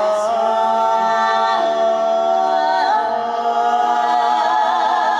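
A cappella vocal group singing slow held chords in several voice parts, with vibrato. The chord shifts to new notes about one and a half seconds in and again about three seconds in.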